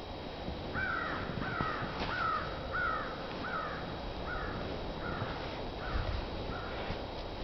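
A bird calling in a series of about nine short, falling calls, roughly one and a half a second, growing fainter toward the end.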